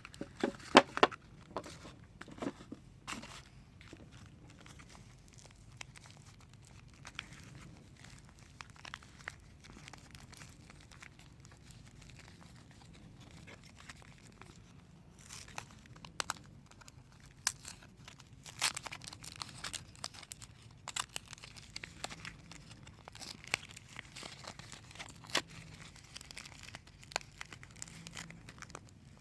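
Soap bar wrappers being unwrapped and torn open by hand: crinkling, tearing and sharp crackles of the packaging, busy in the first few seconds, sparse for a while, then busy again from about halfway on.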